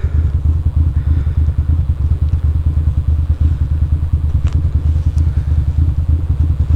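Ducati Monster's L-twin engine idling steadily with a fast, even throb, the bike standing still with no revving. Two faint ticks are heard around the middle.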